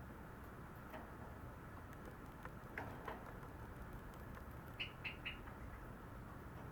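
Java sparrow singing softly: a few scattered clicks, then three quick high chirps in a row about five seconds in.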